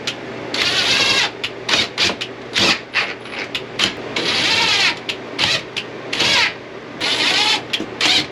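A series of irregular scraping strokes, short and long, of something rasping or rubbing against a surface. Under them runs a steady low hum from the motorhome's struggling air conditioner.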